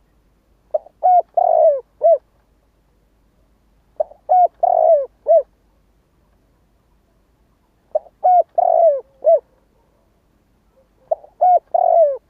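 Spotted dove cooing: a phrase of four or five coo notes, with one longer note near the middle, repeated about every four seconds, four times.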